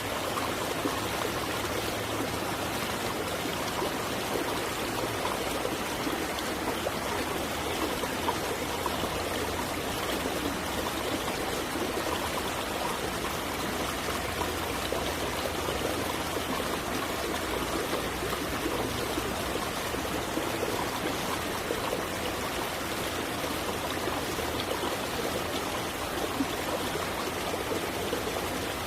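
Running water of a stream flowing steadily, an even rushing and trickling.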